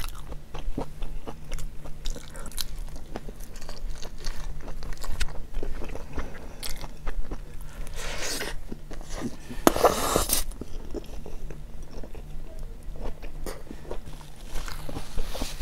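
Close-miked biting and chewing of a hot dog with a snappy-skinned sausage and pickles: a run of small wet clicks, with two louder crunching bites near the middle.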